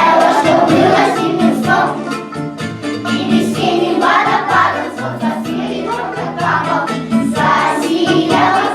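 Music with a choir of voices singing, a children's song.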